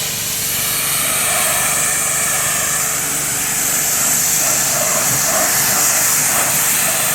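Motor-driven pressure washer running, with a steady hum under the loud hiss of its water spray.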